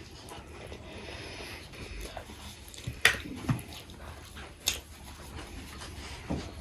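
Close-up chewing and mouth sounds of someone eating momos, with two sharp clicks about three and four and a half seconds in.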